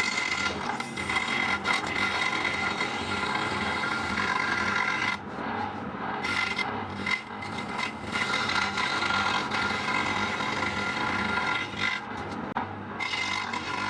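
Wood being shaped with an abrasive tool: continuous rasping and rubbing, with short breaks about five seconds and twelve seconds in.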